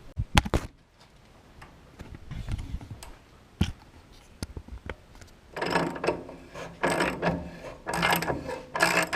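A socket ratchet being worked in repeated strokes, about one a second, starting about five seconds in, to loosen a stuck bolt that has just been heated with a torch. A few sharp metal clicks come at the very start.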